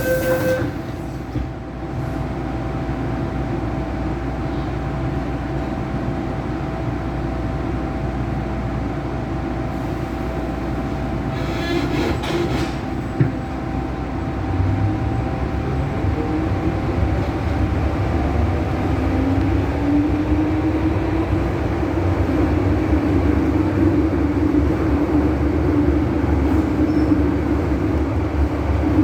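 MTR M-Train electric multiple unit heard from inside the carriage, a steady running rumble. About halfway through, the traction motor whine begins rising steadily in pitch and growing louder as the train picks up speed.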